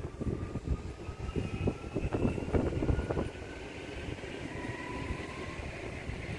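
A train running on the track, with dense irregular knocking and clatter over a low rumble. Thin whining tones rise slowly in pitch throughout.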